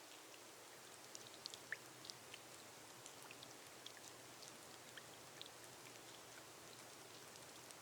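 Faint rain on a glass roof: a soft, steady hiss with many individual drops ticking at random.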